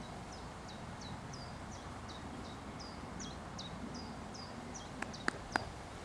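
A small bird calling over and over: short high chirps, each dropping in pitch, about three a second, over steady outdoor wind noise. Three sharp clicks come close together near the end.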